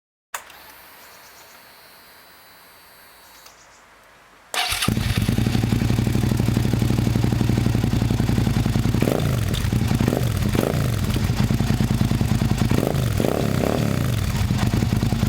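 Suzuki SV650S 90-degree V-twin engine starting about four and a half seconds in, then idling steadily with a few short throttle blips in two groups.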